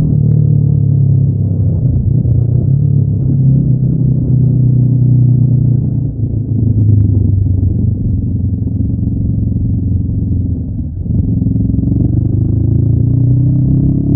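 Honda NX500's parallel-twin engine running under load through its stock exhaust, recorded onboard. The note is steady, with two brief dips, about six and eleven seconds in, and the revs climb near the end.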